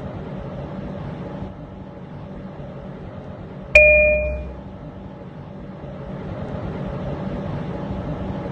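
A single electronic chime from an R179 subway car about four seconds in, two tones ringing out together and fading over about a second. Under it runs the steady low hum of the stopped train, rising slightly near the end.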